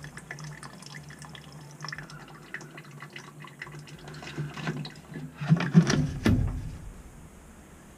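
Leftover water dripping and trickling from the drain of a Navien combi boiler's circulator pump as it is drained. About five and a half seconds in, a cluster of louder knocks and rattles from handling the pump.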